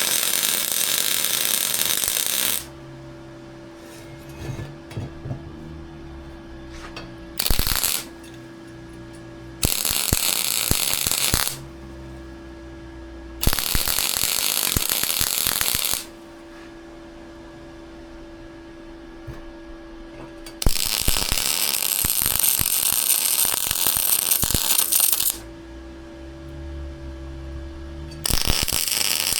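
Welding arc crackling in six bursts of a few seconds each, each starting and stopping suddenly as a bead is laid, with a steady low hum in the pauses between.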